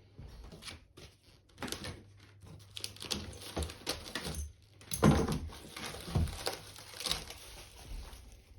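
Irregular unpacking noises: packaging crinkling and rustling, with knocks and bumps, the loudest about five seconds in.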